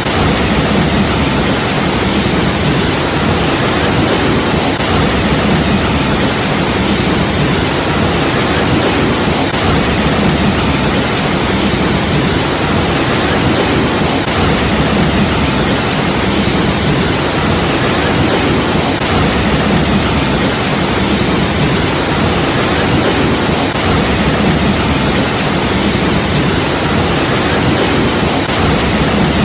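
Waterfall rushing in a loud, steady, unbroken roar of falling water.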